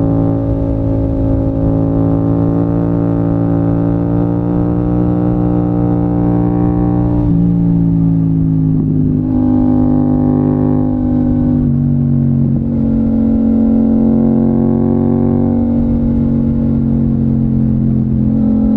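Yamaha MT-07's crossplane parallel-twin engine running under way, a steady loud drone whose pitch steps down several times, around seven, twelve and fifteen seconds in.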